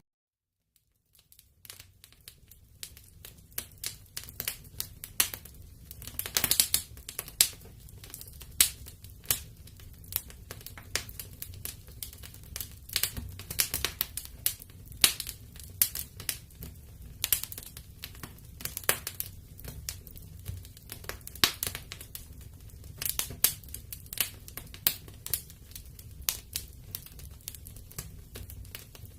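Wood fire crackling in a fireplace: irregular sharp pops and snaps over a steady low rumble. The sound drops out for about a second at the start, then fades back in.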